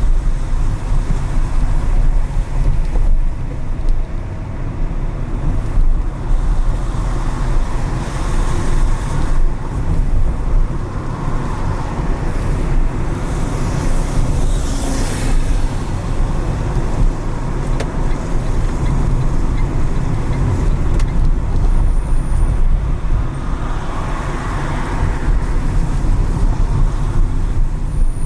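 Driving through city traffic on wet streets: a steady deep rumble of the car and its tyres, with a rising and falling hiss about halfway through, like a vehicle passing on the wet road.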